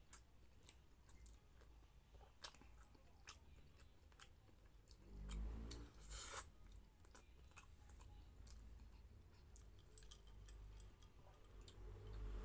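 Faint chewing and wet mouth clicks from a person eating rice and pork menudo by hand, with a louder bite about five to six seconds in as a handful goes into the mouth.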